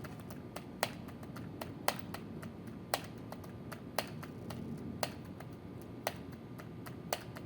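Sharp clicks in a steady beat, about one a second, with fainter ticks between them.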